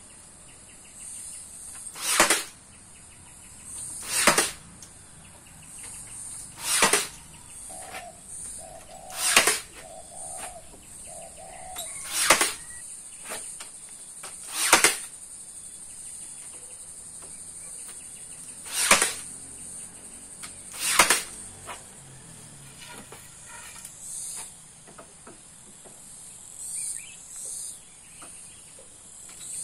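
Repeated sharp whooshes, roughly one every two to three seconds, over a steady high-pitched hiss.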